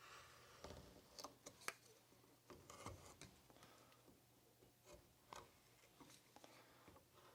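Faint, scattered short scrapes and clicks of a hand carving tool cutting into tough dry wood, a stroke at a time with pauses between.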